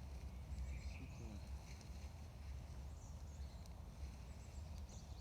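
Songbirds chirping faintly and intermittently over a steady low rumble.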